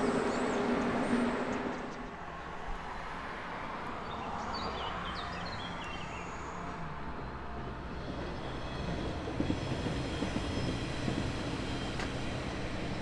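A passing electric-hauled train fading away over the first two seconds, its steady hum dying out. From about eight seconds in, a diesel multiple unit approaches and runs across the railway bridge, with wheel rumble and clatter.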